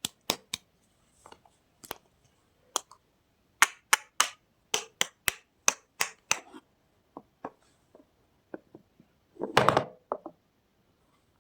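Soap packaging being handled and opened: irregular sharp clicks and crackles, several a second in the middle, then a louder rustling burst about ten seconds in.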